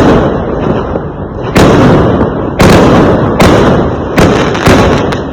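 Fireworks exploding one after another: about six loud bangs, each trailing off into a rumbling echo before the next.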